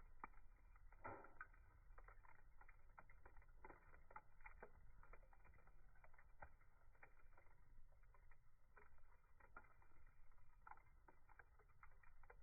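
Wood fire burning and crackling faintly, with irregular small pops and snaps.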